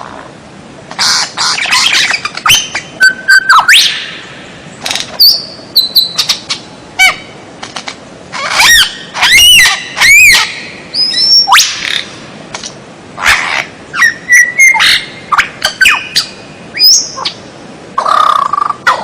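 A songbird singing a loud, varied song in short phrases of sweeping whistles, chirps and quick rattling trills, with brief pauses between them.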